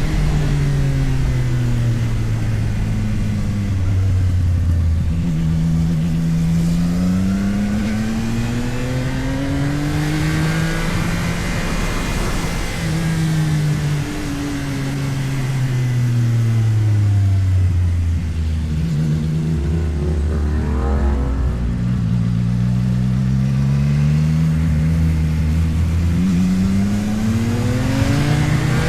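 CFMOTO 675NK motorcycle's inline three-cylinder engine under way, its pitch falling as it slows, then climbing and dropping again several times as it pulls through the gears, with wind rush over it.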